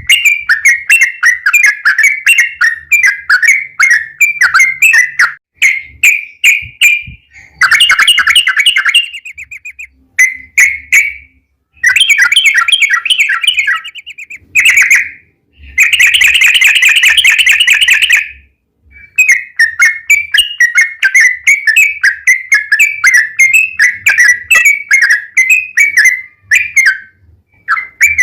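Trucukan (yellow-vented bulbul) singing loudly: quick runs of bubbling, chattering notes broken by short pauses, with several longer rolling trills ('ropel').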